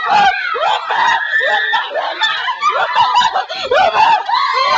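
Several people shrieking and laughing at once, high voices overlapping in a steady commotion with no clear words.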